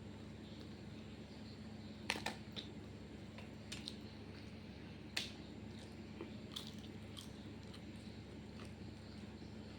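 Close-up eating sounds: chewing and biting, with scattered sharp crunchy clicks. The loudest are a pair about two seconds in and another about five seconds in, over a steady low hum.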